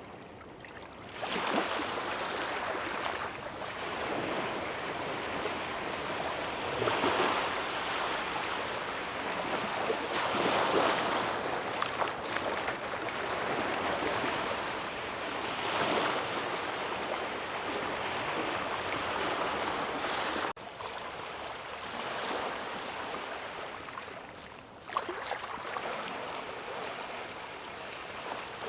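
Ocean waves breaking and washing up a shore, a wash of surf noise that swells and falls back every few seconds. The sound drops suddenly about two-thirds of the way through and rises sharply again a few seconds later.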